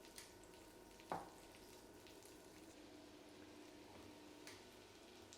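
Sliced mushrooms frying faintly in a pan of melted butter and olive oil, a soft sizzle, with a light tap from the pan about a second in.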